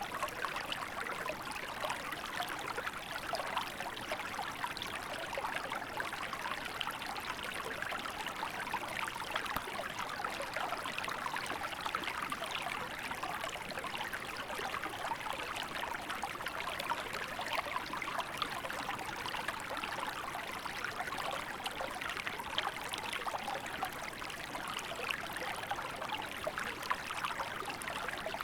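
Small river flowing steadily over rocks, a continuous babbling and trickling of water with fine splashes.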